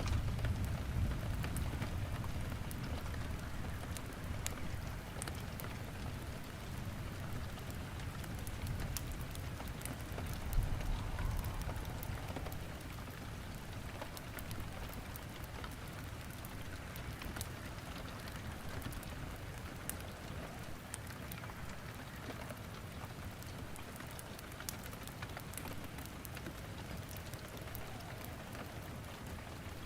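Steady rain falling, mixed with firewood crackling in a fireplace, which gives many small sharp pops throughout. A low rumble swells about ten seconds in and dies away by about twelve seconds.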